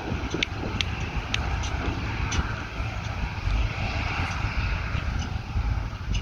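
Claas Lexion combine harvester running steadily in a standing wheat crop, a dense low engine rumble under a constant rushing noise, with scattered sharp ticks.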